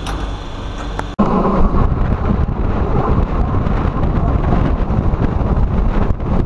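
Wind buffeting the microphone over the running noise of a moving Euskotren UT200 electric train, from a camera held outside an open window. Before that, a quieter steady hum with a few level tones cuts off abruptly about a second in.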